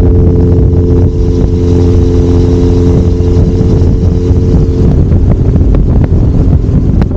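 Kawasaki Zephyr 750's air-cooled inline-four engine running at a steady cruise, with wind rushing over the microphone. The engine's steady tone thins out after about five seconds while the wind rumble carries on.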